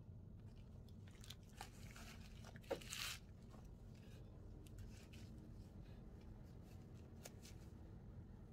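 Near silence in a small room, with faint handling noises: a sharp click and a short rustle about three seconds in, and a few light clicks.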